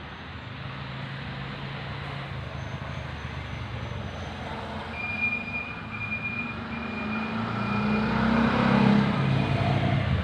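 A motor vehicle going by, its low engine hum swelling to its loudest near the end. A thin high tone comes in short repeated stretches over the second half.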